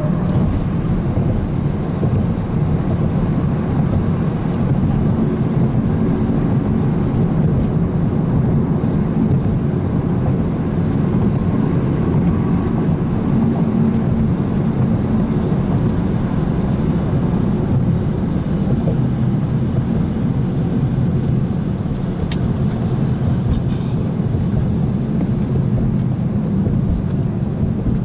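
BMW 335i's N55 turbocharged 3.0-litre straight-six running at a fairly steady pace while driving, with road and tyre noise as a steady low rumble throughout.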